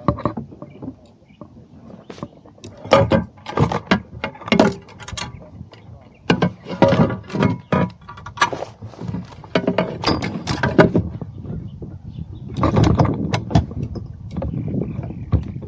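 Irregular knocks, clatters and thumps on a kayak, several close together, some loud and sharp, with a heavier run of thumps near the end.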